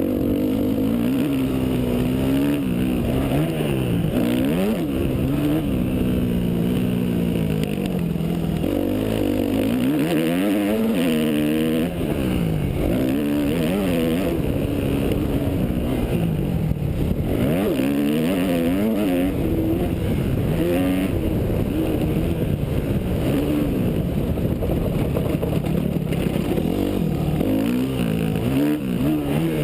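Yamaha YZ250F single-cylinder four-stroke motocross bike engine being ridden hard. The pitch climbs and drops over and over as the throttle opens and shuts through gear changes.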